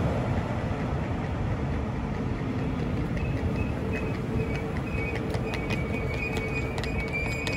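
Red double-deck regional train hauled by a locomotive rolling slowly along the platform, with a steady low rumble. Over the second half a high, thin squeal sets in, with a run of sharp clicks, typical of the train braking to a stop.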